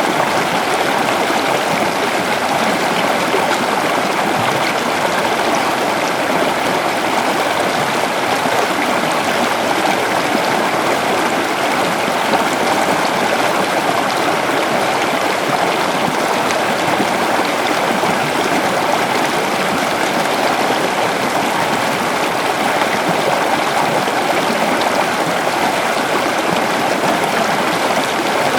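A river flowing steadily over stones: continuous rushing and babbling water.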